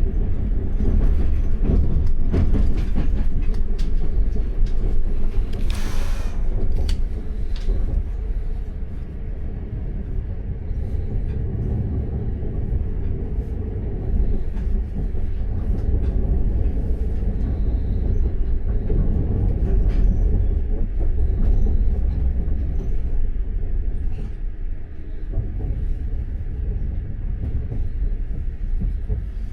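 Passenger train running on the rails, heard from inside the carriage: a steady low rumble with scattered wheel clicks, and a brief louder rush about six seconds in.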